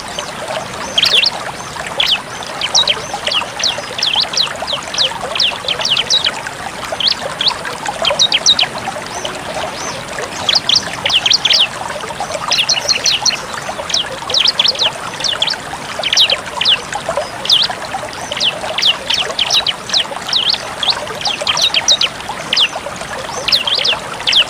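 Ciblek (bar-winged prinia) singing a rapid-fire 'tembak' song: quick runs of sharp, high, fast-sweeping notes, several a second, broken by short pauses. Under it runs a steady sound of trickling water.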